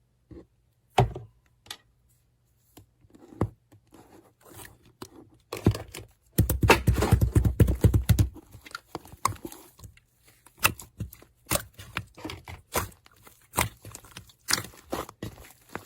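Slime being squished, pressed and pulled by hand, giving irregular sticky clicks and pops, with a dense run of squelching from about six to eight seconds in.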